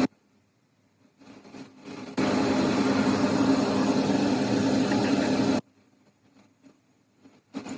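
A machine running steadily with a low hum under a wide hiss. It starts suddenly about two seconds in and cuts off abruptly after about three and a half seconds.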